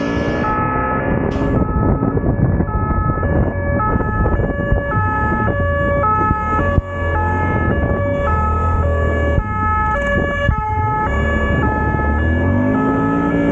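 Emergency vehicle's two-tone hi-lo siren, switching between a high and a low note about every half second. A motorcycle engine revs up and down beneath it.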